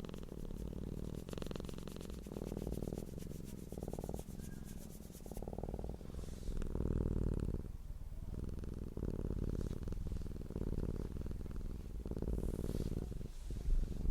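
Domestic cat purring close to the microphone: a low, rhythmic rumble that swells and fades with each breath in and out.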